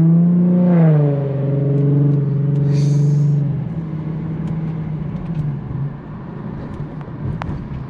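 Infiniti G37's 3.7-litre V6, fitted with Stillen Gen 3 intakes, running at steady throttle with a loud, droning note. The drone fades about three and a half seconds in, leaving a quieter rumble, with a brief hiss just before.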